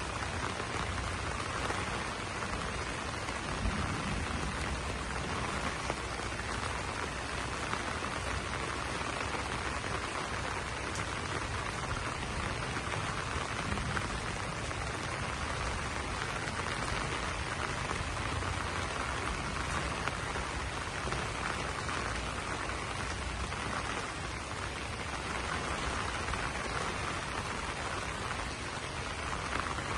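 Steady rain falling on broad banana leaves, a dense, even hiss of drops that runs unbroken.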